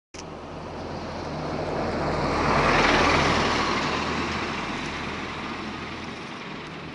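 A vehicle passing by. Its noise starts abruptly, swells to a peak about three seconds in, then fades slowly.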